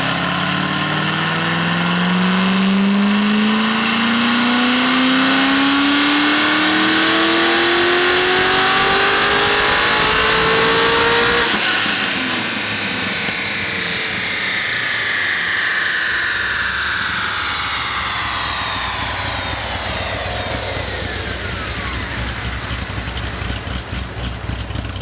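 Performance car engine making a full-throttle pull on a chassis dyno, its note climbing steadily in pitch for about eleven seconds. The throttle then shuts abruptly, and falling whines from the drivetrain and rollers wind down as the car coasts to a stop.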